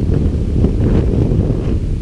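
Loud wind buffeting on the microphone of a motorcycle under way, a dense low rumble with no clear engine note.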